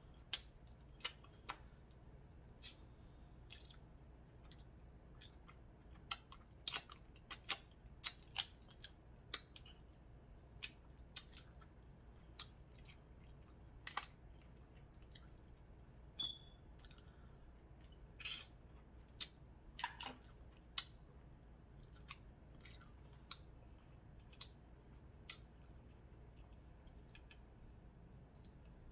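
Person eating a seafood boil by hand: scattered sharp clicks and cracks of shells snapping, with chewing, the sounds thickest through the middle and thinning out near the end.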